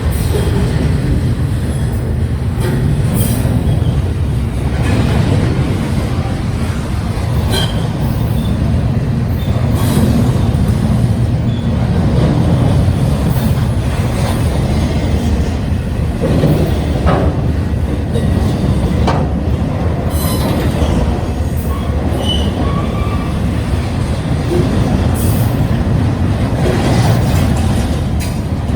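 Union Pacific double-stack intermodal train rolling past: a steady rumble of the container cars' wheels on the rails, with scattered clicks and a few brief wheel squeals.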